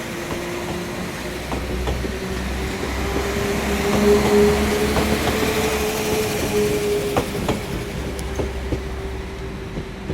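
Class 197 diesel multiple unit pulling out, its engine running with a steady whine over a low rumble and a few sharp clicks from the wheels. It grows loudest about four seconds in.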